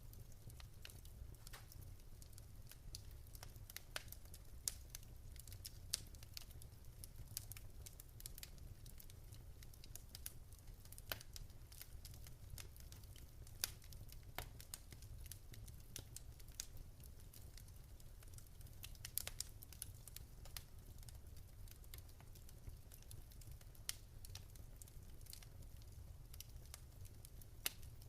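Wood fire in a fireplace crackling: irregular sharp pops and snaps, a few louder ones, over a faint low steady rumble of the burning.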